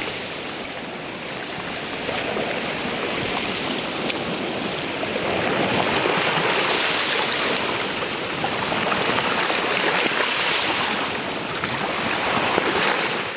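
Rushing water, steady and noisy, swelling louder from about six seconds in and then cutting off abruptly at the end.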